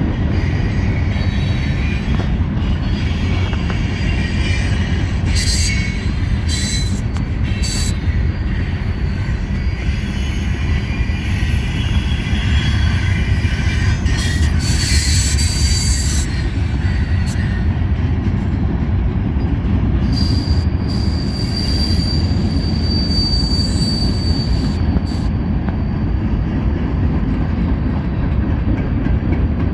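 Freight cars of a Norfolk Southern train rolling past with a steady loud rumble, the wheels squealing on and off, with one long high squeal about two-thirds of the way through.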